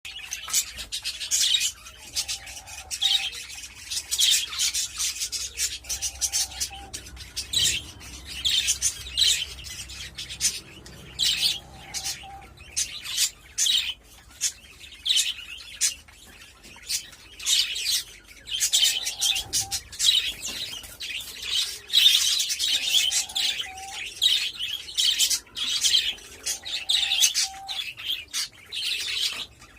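Budgerigars chattering in a constant stream of rapid, high chirps, with short lower whistled notes every few seconds.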